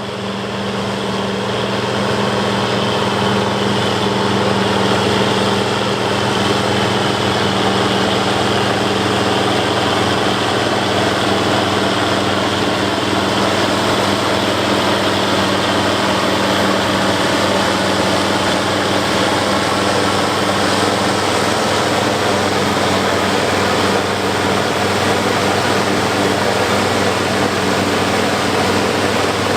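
International 1086 tractor's turbocharged six-cylinder diesel running steadily under load, driving a New Holland FP240 forage harvester chopping corn, with the harvester's cutterhead and blower rushing over the engine's steady hum. It fades in over the first couple of seconds and then holds level.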